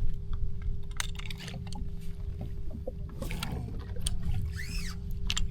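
Water and rumble around a jet ski on the water, with a faint steady hum and scattered sharp clicks and knocks.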